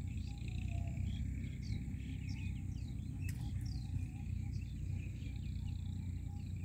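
Birds chirping in quick, short falling notes, several a second, thickest in the middle, over a steady low rumble. A single sharp click about three seconds in.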